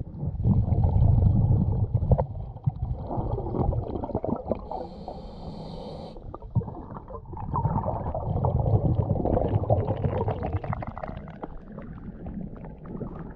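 Scuba diver breathing through a regulator underwater: long, low rumbling gurgles of exhaled bubbles twice, with a short hiss of inhalation between them.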